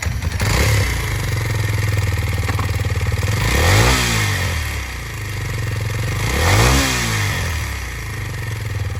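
Kawasaki KLX230's single-cylinder engine idling, revved twice with quick throttle blips about four and seven seconds in, the pitch rising and falling back to idle each time.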